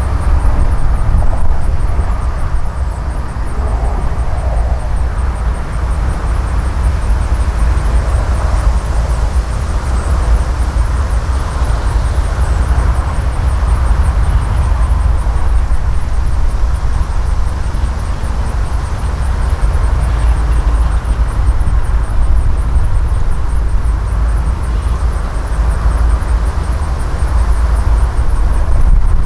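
Freight cars of a passing manifest train rolling by: a steady, loud, deep rumble of steel wheels on the rails.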